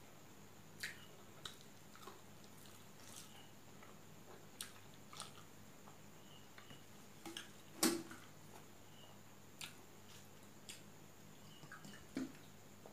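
Close-up eating sounds of a person eating rice by hand: scattered wet smacks and clicks of chewing and the lips, the loudest about eight seconds in. Near the end comes a gulp as she drinks from a water bottle.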